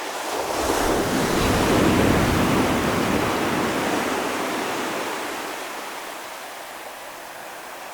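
Ocean waves breaking on the shore: one wave swells and washes in about a second in, peaks around two seconds, then slowly recedes and fades.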